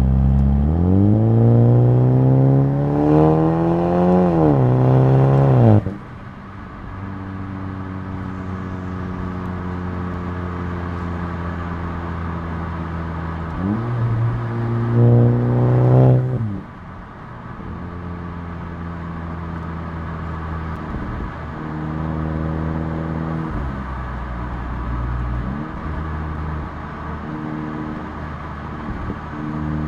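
2019 Volkswagen Jetta GLI's turbocharged 2.0-litre four-cylinder heard through a Neuspeed stainless steel cat-back exhaust, accelerating in a small pull: the exhaust note rises for about six seconds, then drops suddenly as the throttle closes. It then cruises steadily, with a brief rise and fall in revs about halfway through and smaller changes in pitch near the end.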